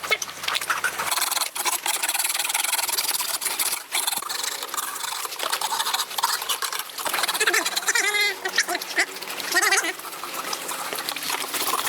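Water running and splashing, with a couple of short pitched calls about eight and ten seconds in.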